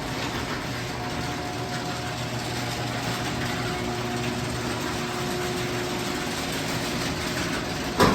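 Genie IntelliCode screw drive garage door opener running, its motor driving the screw rail with a steady hum. A sharp clunk comes near the end.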